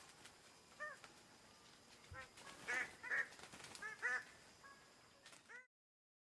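Greater bird-of-paradise calling: a series of short, repeated calls, several close together in the middle. The sound cuts off abruptly near the end.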